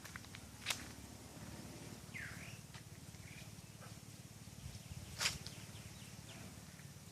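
Faint outdoor background with a steady low hum, a short swooping chirp about two seconds in, and a few sharp clicks, the loudest about five seconds in.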